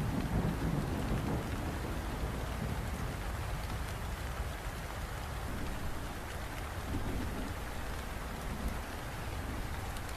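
Steady rain falling, with low rumbles of distant thunder swelling near the start and again about two-thirds of the way through.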